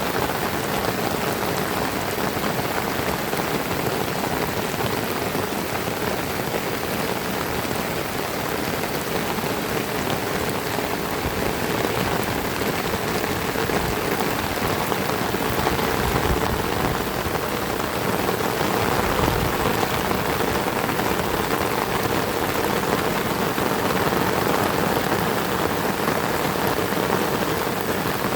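Heavy rain falling steadily in a dense, even hiss, with a couple of brief low rumbles a little past the middle.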